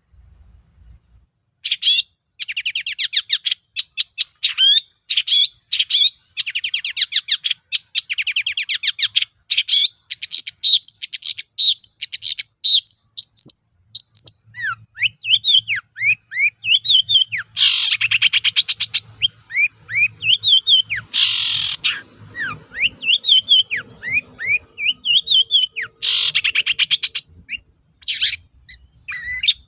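Long-tailed shrike singing a fast, varied song of rapid trills and short sliding whistled notes, packed with mimicked phrases. Three harsh rasping calls break in during the second half.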